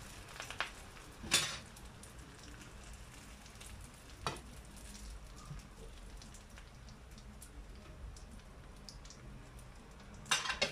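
Bourek pastry rolls sizzling gently in a little oil in a frying pan, with a few sharp clicks of a fork against the pan: the loudest about a second and a half in, one near the middle and a short cluster near the end.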